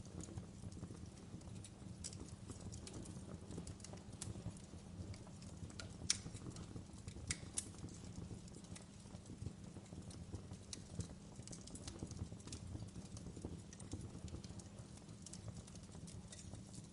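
Wood fire crackling in a fireplace: a steady low rumble of burning with irregular sharp pops and snaps, two of them louder about six and seven and a half seconds in.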